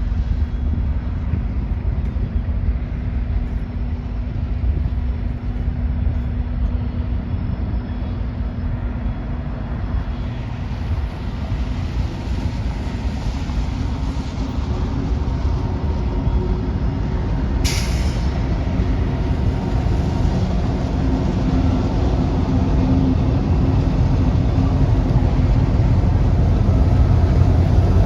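Freight train running by, a steady low rumble of locomotive and rolling wagons that grows louder toward the end, with one brief sharp hiss of air a little past halfway.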